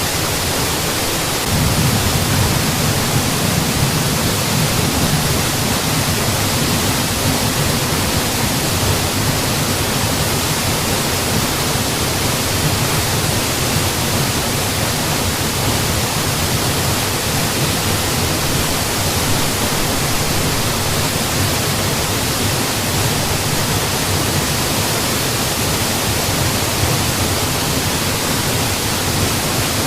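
Mountain waterfall: water falling steadily, an even, unbroken rushing noise. Its low rumble grows slightly louder about a second and a half in.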